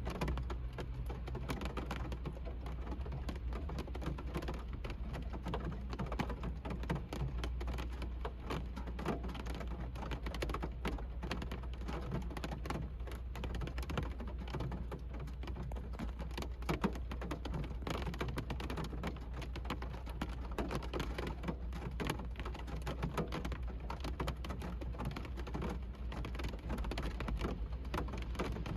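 Rain falling on a car's roof and windows, heard from inside the car: a dense, continuous patter of drop taps over a steady low rumble.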